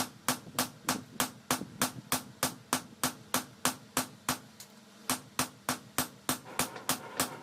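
Rapid, evenly spaced hammer blows on forged leaf-spring steel, about three strikes a second, pausing briefly about halfway through and then resuming.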